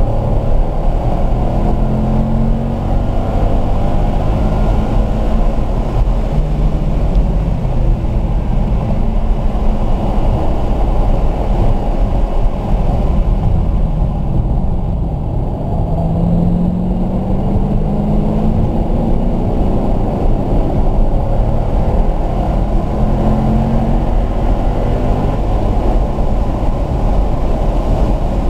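Car engine working hard through a track lap, heard from inside the car: it eases off for a slow corner around the middle, then rises in pitch in repeated pulls as the car accelerates hard toward the end.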